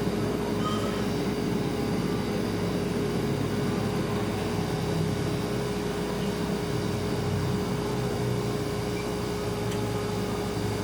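Refrigerator running with a steady hum: one constant tone over a low rumble.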